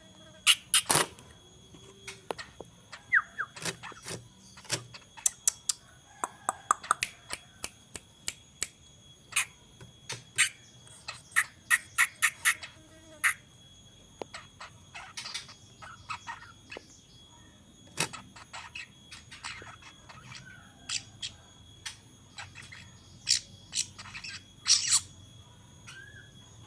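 A juvenile long-tailed shrike (cendet) giving many short, sharp, irregularly spaced calls with the odd brief chirp: a young bird practising its chattering 'ngeriwik' song. A faint steady high-pitched whine runs underneath.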